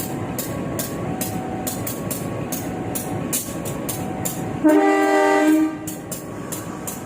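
Train wheels running on the rails with frequent sharp clacks, heard from inside a coach's toilet. About two thirds of the way in, the locomotive's horn sounds one blast of about a second, the loudest sound, warning of a level crossing.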